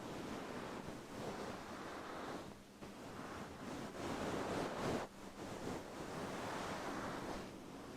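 Rustling strokes rubbed across a furry microphone windscreen on a Blue Yeti microphone, a series of swishes of uneven length that swell and fade, the loudest cutting off abruptly about five seconds in.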